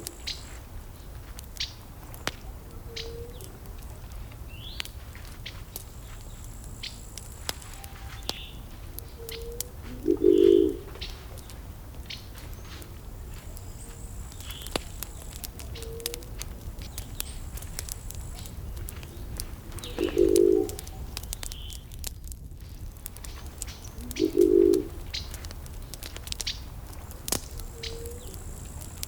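Wood fire crackling with scattered sharp pops over a low steady rumble. A dove coos in low, half-second notes, loudest about ten, twenty and twenty-five seconds in, with softer coos in between and faint high chirps from small birds.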